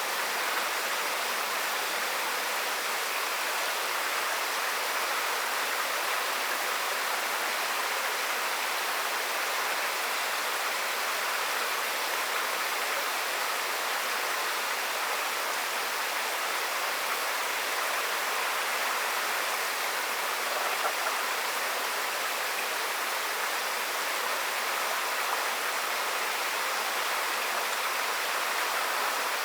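Water flowing in a channel: a steady, even rushing hiss that never pauses.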